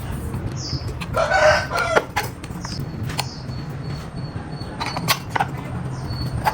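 A chicken calls once, about a second in, over a steady low hum. A few short high chirps and sharp taps follow.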